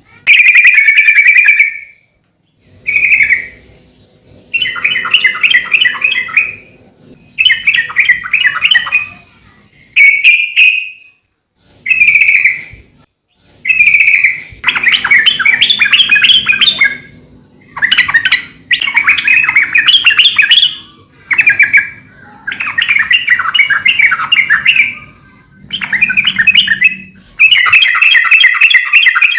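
Yellow-vented bulbul singing: a string of quick, bubbling, chattering phrases, each a second or two long, following one another with short pauses.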